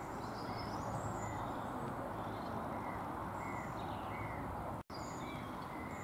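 Outdoor ambience: a steady hiss of background noise with small birds chirping repeatedly in short notes. The sound cuts out for a split second about five seconds in.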